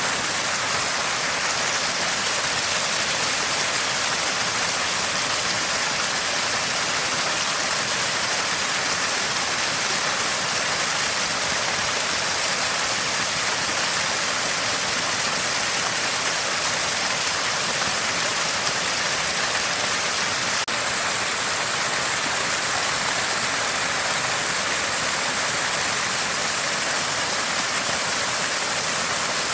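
Water from a small spring gushing and gurgling steadily, a constant hiss of running water.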